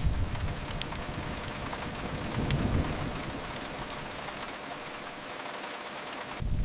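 Steady rain hiss with a few faint fireplace crackles. A low rumble fades away over the first few seconds and comes back suddenly near the end.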